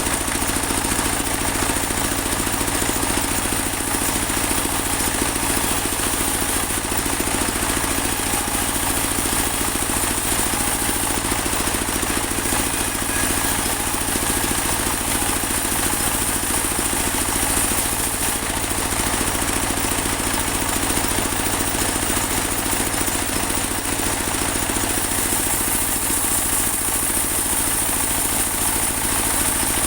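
Portable band sawmill running steadily, its engine drone under a constant high whine.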